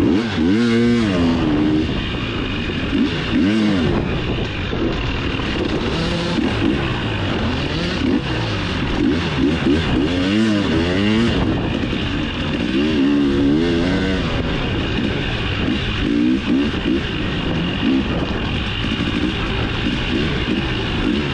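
Dirt bike engine revving up and falling back over and over as it is ridden hard off-road, its pitch rising and dropping every second or two.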